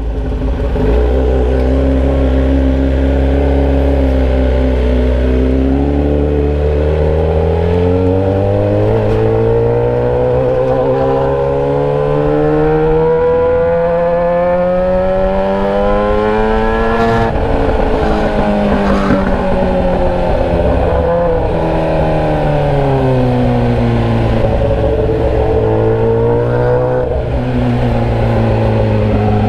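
Motorcycle engine running with the muffler removed, exhaust straight out of an open pipe, while riding. The revs hold low at first, climb steadily for about ten seconds, drop sharply, then fall and begin to build again near the end.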